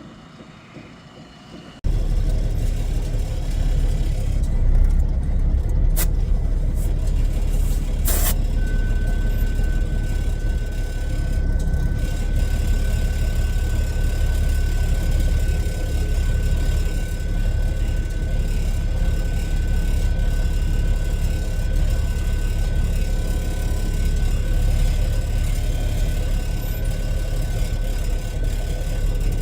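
Heavy diesel engine running steadily with a deep low rumble, starting abruptly about two seconds in. Two sharp clicks follow a few seconds later, then a thin steady high whine holds over the rumble.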